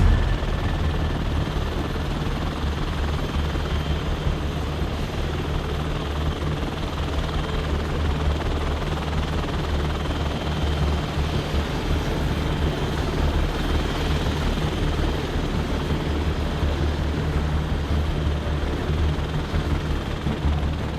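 Helicopter flying an aerobatic display. Its rotor and engine make a loud, steady noise that is heaviest in the low end, starting abruptly at the beginning.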